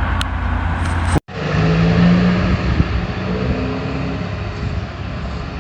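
Farm tractor engine running as it drives past on the road, a steady low engine note whose pitch shifts a few times. The sound cuts out for a moment about a second in, then resumes.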